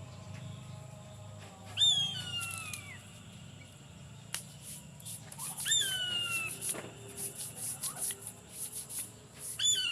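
Eagle calling three times, about four seconds apart, each call a high, thin scream that slides downward over about a second.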